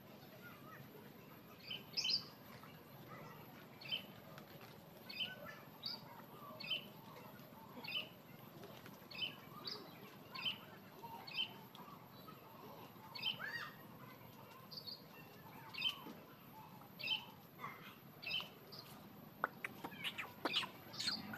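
A bird calling over and over, short high chirps roughly once a second, over low outdoor background noise. A few sharp clicks come near the end.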